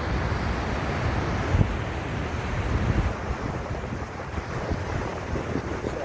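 Wind buffeting the microphone: a steady rushing with low, gusty rumbles that swell around one and a half and three seconds in.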